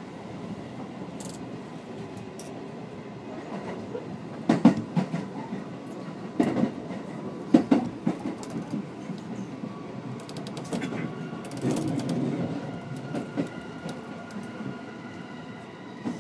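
Electric commuter train running, heard from inside the car: a steady rumble with the wheels clacking over rail joints, a few loud clacks a little under halfway through.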